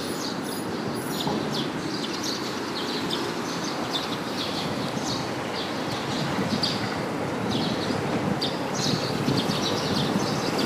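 Outdoor ambience: a steady low rumble with small birds chirping in short, repeated calls.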